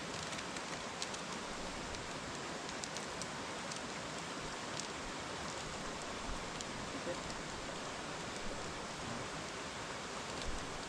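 Steady rush of falling water, with a few faint short ticks scattered through it.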